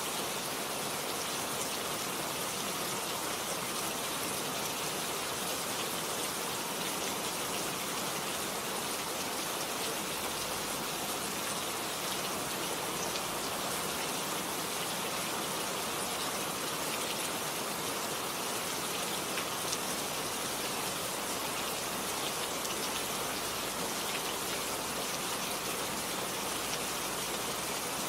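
Steady rain falling on a garden: an even, unbroken hiss made up of countless small drops, holding the same level throughout.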